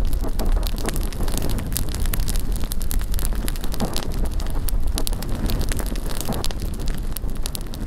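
Large wood bonfire crackling, with many sharp pops in quick succession over a steady low rumble of wind on the microphone.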